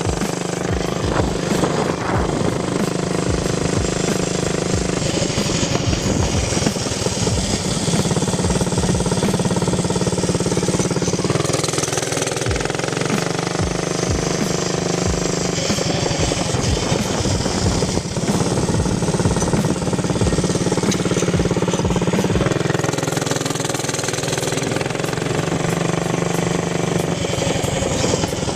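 Mini bike's small engine with an aftermarket exhaust header, running loud with a rapid staccato beat. Its pitch rises and falls a few times as it is throttled up and eased off.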